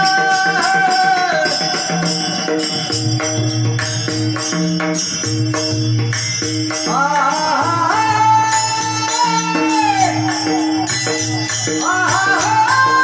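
Marathi devotional bhajan music: a held, ornamented melody line that slides up in pitch twice, over sustained low notes and jingling percussion keeping a steady beat.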